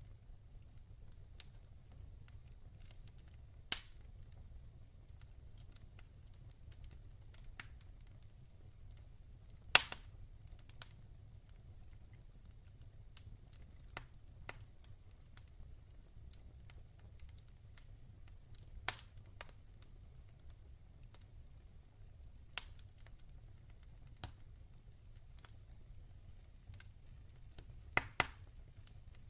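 Log fire crackling: scattered sharp pops and snaps at irregular intervals over a faint low rumble, the loudest pop about a third of the way in and another strong pair near the end.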